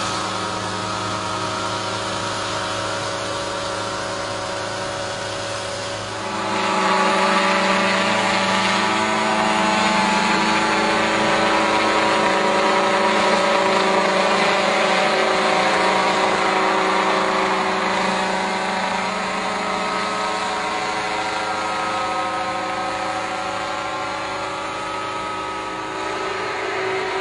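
Multirotor crop-spraying drone's propellers humming steadily; about six seconds in the hum jumps louder and a little higher in pitch, then slowly eases back down.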